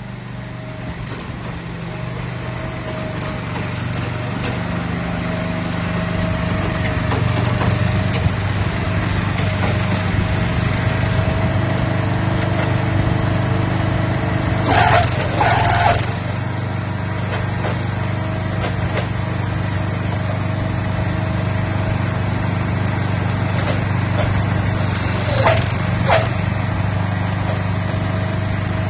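Mitsubishi engine of a crawler walnut shaker running steadily, growing louder over the first several seconds. Two pairs of short sharp knocks stand out, about halfway through and again near the end.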